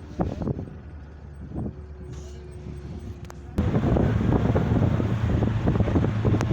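Vehicle road noise and wind on the microphone. It is quieter at first with a few knocks, then turns suddenly to a louder, steady low rumble a little past halfway.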